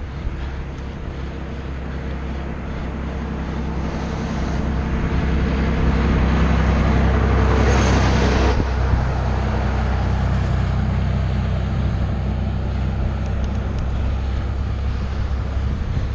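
A motor vehicle's engine running steadily, with a rush of road and wind noise that swells to a peak about halfway through and then eases off.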